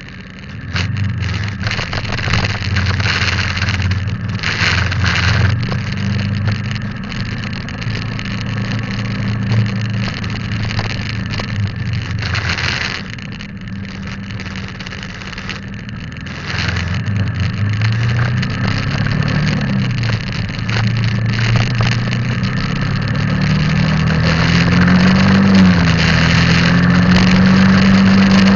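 Motorbike engine running on the move, its pitch rising and falling with the throttle and climbing higher near the end. Short gusts of wind noise hit the microphone.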